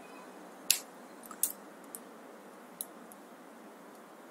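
Scattered sharp metallic clicks, about five, uneven in spacing: an Allen key and small metal parts being handled against a bicycle's rear derailleur cage as its screws are undone.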